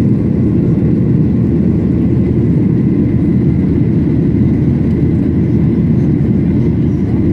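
Steady cabin noise of a Boeing 737-800, its CFM56-7B engines and the airflow giving an even low rumble with a faint high tone above it.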